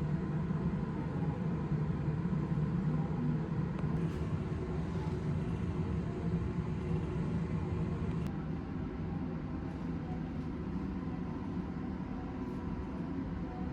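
A steady low mechanical hum and rumble that holds evenly throughout, with a few faint clicks.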